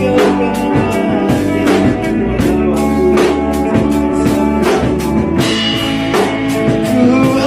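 A rock band playing: electric guitar and bass over a drum kit keeping a steady beat.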